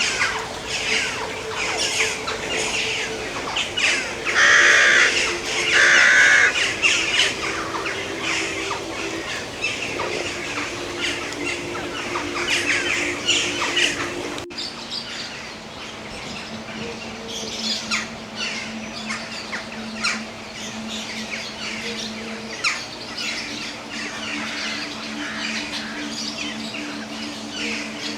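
Mixed birdsong and chirping from many birds, with two loud harsh squawks about four and six seconds in, over a steady low hum.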